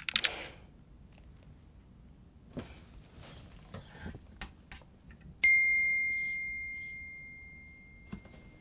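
A brief clatter of sharp knocks at the start, then a single bell-like ding about five seconds in. The ding rings on one clear tone and fades slowly over about three seconds.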